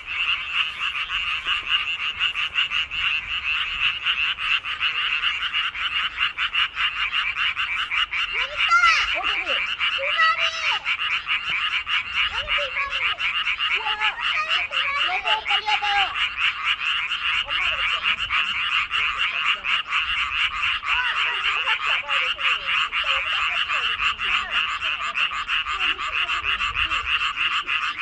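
A dense chorus of many frogs calling without a break, their rapidly pulsing calls overlapping into one steady din. A few lower, shorter calls come through now and then in the middle.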